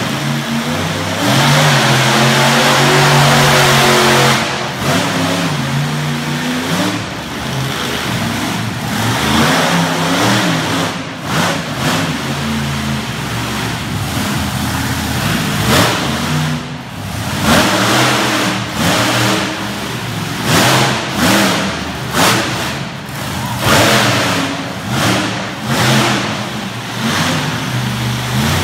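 Monster truck engine running loud under hard throttle, its pitch rising and falling, then revved in a run of short repeated bursts through the second half.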